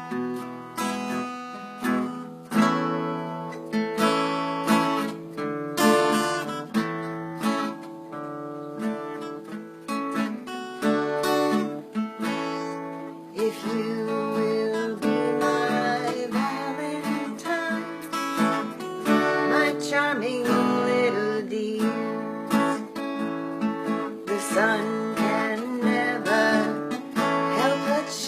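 Acoustic guitar strummed in a steady rhythm of chords, with a voice singing along from about halfway through.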